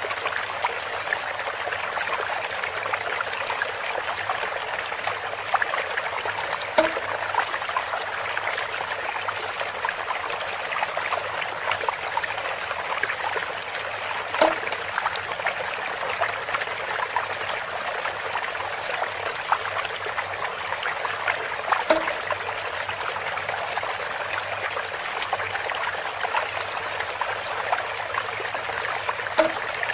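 Water trickling and pouring steadily through a bamboo spout, a continuous splashing patter, with a short low knock-like sound repeating about every seven and a half seconds.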